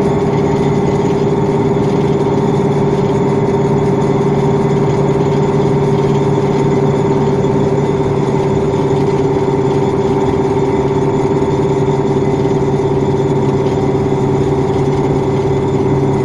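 KamAZ 5511 truck's V8 diesel engine running at steady revs, a constant drone with no change in pitch.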